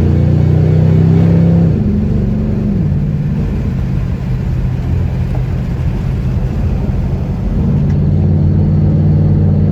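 Ford Mustang GT's V8 running through its newly installed exhaust while the car is driven; the engine note drops and eases off about two seconds in, runs lower for a few seconds, then picks up again near the end.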